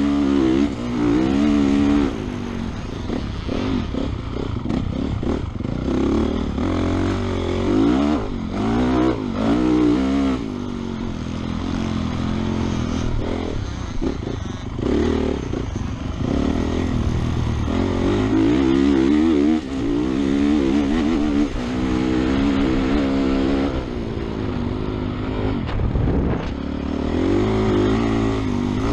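Honda motocross race bike's engine revving up and falling back again and again as the rider works the throttle and gears around the track, heard from a helmet-mounted camera with wind rush.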